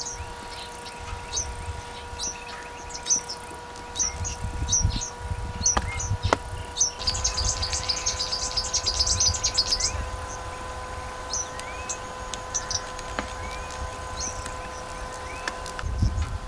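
Wild birds calling: repeated short, high, falling chirps, with a dense fast trill for a few seconds around the middle. A low, uneven rumble sits underneath.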